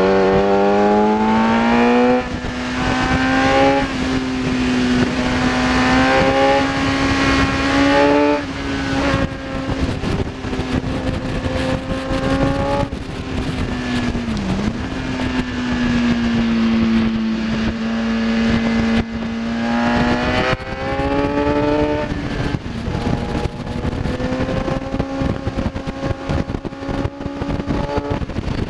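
Kawasaki ZX-10R inline-four sportbike engine at track speed, accelerating hard through the gears. The pitch climbs and drops sharply with each quick upshift about every two seconds at first, then holds high revs with a brief dip midway, and climbs again near the end. A steady rush of wind noise runs underneath.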